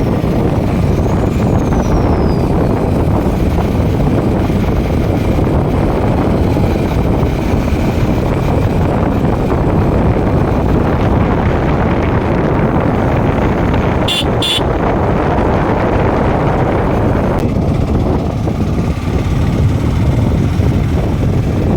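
Motorcycle on the move, heard from the rider's position: a steady, loud rush of engine and road noise, with two short high beeps about fourteen seconds in.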